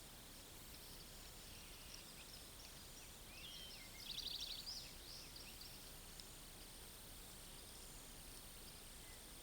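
Small birds chirping over a steady hiss, with a quick rapid trill about three and a half to five seconds in.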